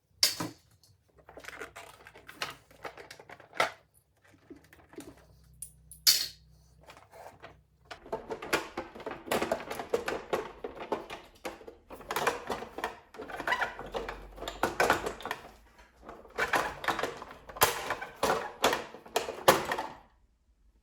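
Irregular clicking and rattling of small hard parts and tools being handled, in bursts of a second or two with short gaps and a few sharper knocks.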